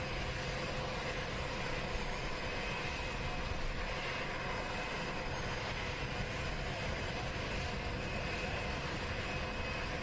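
Jet engines of Air Force One, a Boeing 747-based VC-25A, running steadily: a constant whine over a low rumble.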